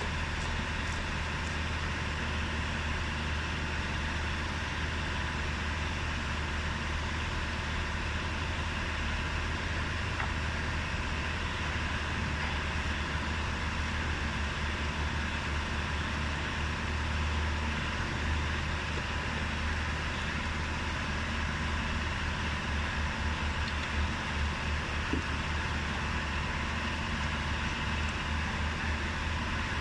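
A steady low mechanical hum, with a slight flutter in the low end in the second half.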